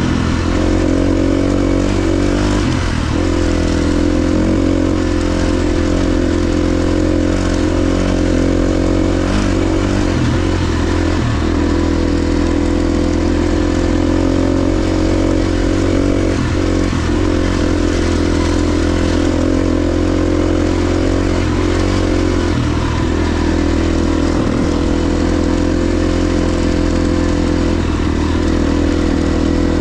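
KTM XC-F 350 single-cylinder four-stroke dirt bike engine running under way at a fairly steady pace. The engine note dips and picks up again briefly every few seconds with throttle changes.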